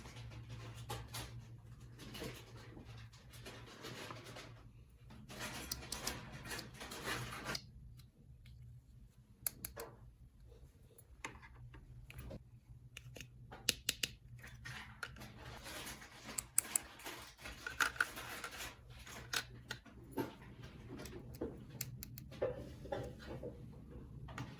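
Small plastic toy pieces being handled and set down: scattered clicks and taps with soft rustling.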